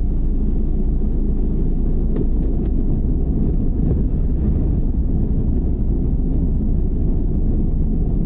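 Car driving, heard from inside the cabin: a steady low road-and-engine rumble with a few faint light ticks.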